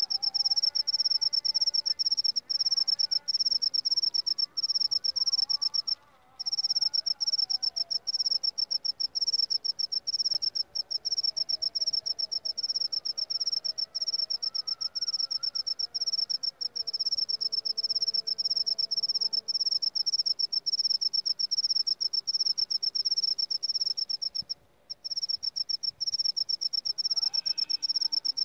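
Seliring field cricket (jangkrik seliring) singing a fast, continuous pulsed trill, high-pitched and steady, with two short breaks, one about six seconds in and one near twenty-five seconds.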